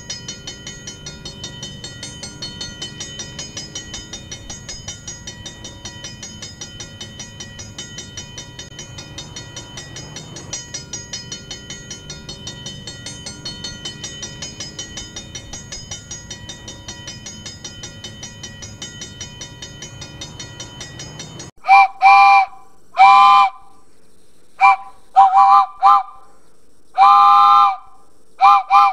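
Train passing, its wheels clattering over the rail joints in a steady rhythm of about four beats a second, with steady high ringing tones over the clatter. About 21 seconds in it cuts off suddenly, and a train signal sounds a chord of several notes in a run of short, loud blasts.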